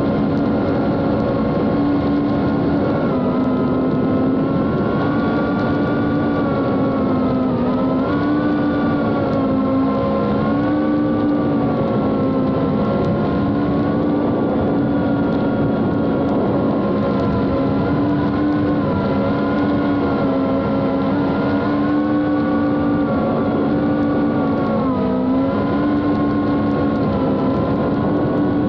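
Small FPV quadcopter's brushless motors and three-inch Gemfan D76 propellers whining steadily, heard from the camera mounted on it, the pitch dipping and rising again every few seconds with throttle changes.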